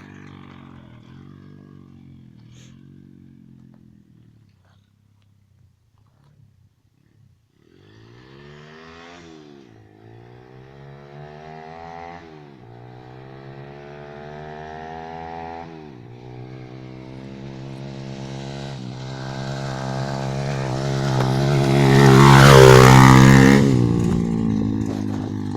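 Orion Pro 125cc pit bike engine fading away, then after a few quiet seconds returning, revving up in several rising sweeps through the gears and growing louder as it approaches. It passes close by late on, loudest there, with the pitch dropping as it goes past, and then moves off.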